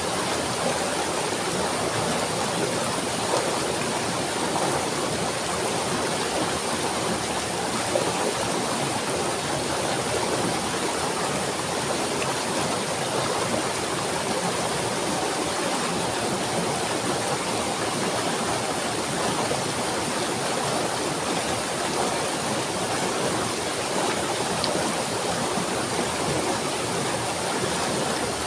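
Running water, a steady, even rushing.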